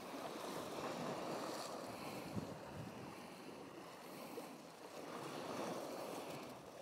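Sea waves washing against the shore rocks with wind, the wash swelling twice.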